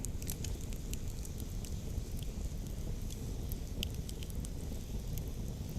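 Campfire wood crackling, with scattered sharp pops over a steady low rumble.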